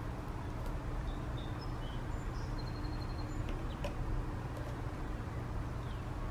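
Faint, scattered clicks and scrapes of a cat biting and clawing the sisal-rope posts of a cat scratching post, over a steady low background hum.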